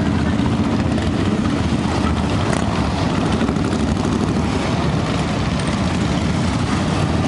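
Motorcycle engines running steadily, a loud low drone with no let-up.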